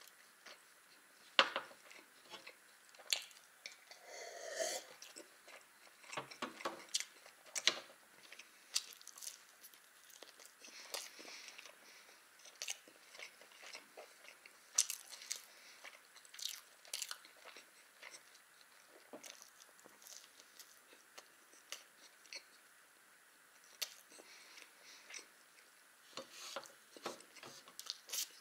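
Close-miked chewing of a soft baked pie (pirozhok): irregular wet mouth clicks and smacks with short quiet gaps between bites.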